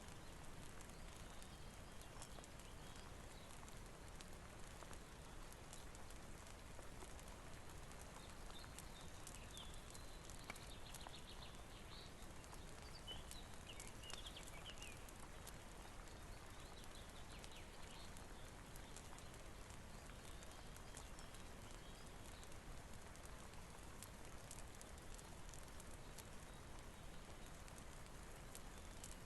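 Steady, soft rain with the crackle of a wood fire: a constant hiss with scattered small clicks and pops. A few faint high chirps come through around the middle.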